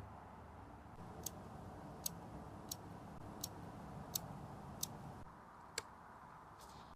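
A series of seven small, sharp clicks, roughly two-thirds of a second apart, over a faint hiss: light metal-on-metal clicks from watchmaker's work on a Rolex 3135 automatic movement.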